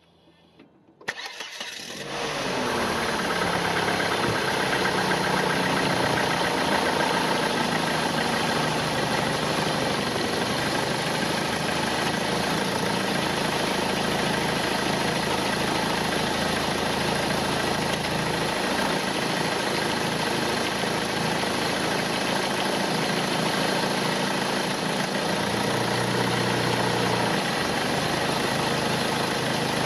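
A 1998 Volvo S40's engine, heard up close at the engine bay, starts about a second in, its revs falling over the next couple of seconds as it settles into a steady idle. It is being run to check for engine movement from a front engine mount that the owner judges worn and in need of replacement.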